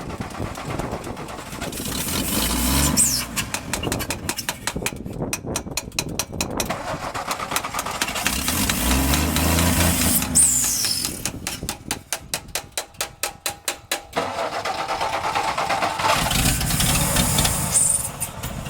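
A 1962 Ford F-350 engine being cranked by the starter with an even, repeating beat. Three times it fires and revs up briefly, then dies away instead of staying running.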